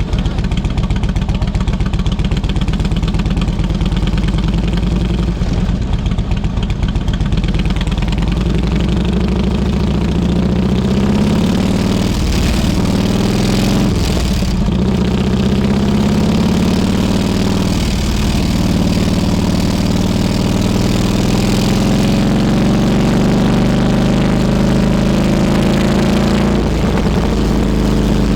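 Harley-Davidson Road King Classic's V-twin engine pulsing at low revs, then pulling away and accelerating through several gear changes, its pitch rising and dropping at each shift, with wind noise building as speed rises.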